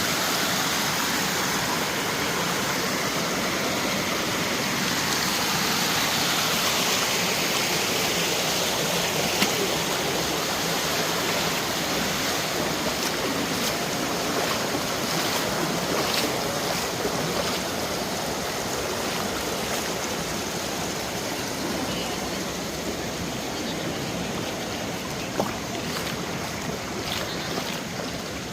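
Mountain stream water running over rocks: a steady rushing.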